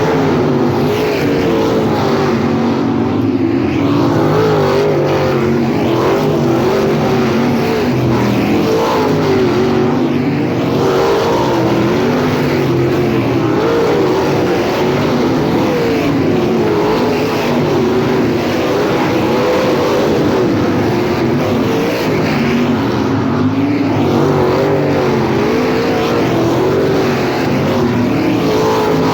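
Several dirt-track race car engines running together on the oval. Their pitch rises and falls every few seconds as the cars accelerate and lift.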